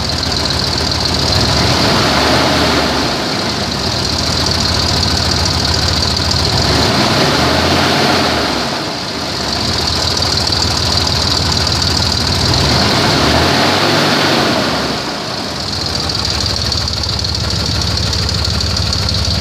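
2003 Dodge Ram 1500 pickup engine idling and being revved up and back down three times. The owner points out a little bit of exhaust leak.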